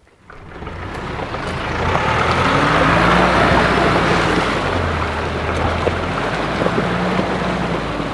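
A 4WD driving on a dirt track: the engine running under steady tyre and wind noise, which fades in over the first two seconds.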